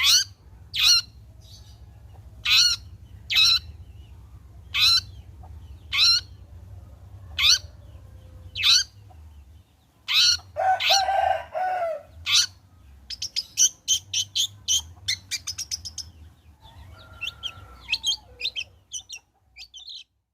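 Long-tailed shrike (cendet) singing: loud, sharp rising calls repeated about once a second, then a harsh rasping phrase about ten seconds in, followed by a fast run of short chattering notes. A faint low hum runs underneath.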